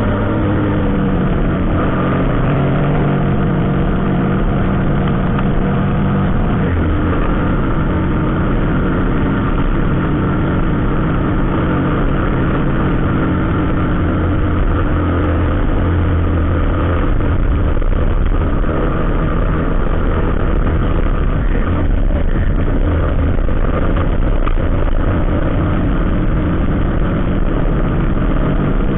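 Vehicle engines running steadily in road traffic, with a deeper engine note taking over about a quarter of the way in.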